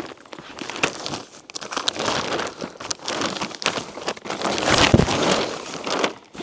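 Large sheet of greenhouse plastic film crinkling and rustling as it is dragged and unfolded, with a louder rush just before five seconds in.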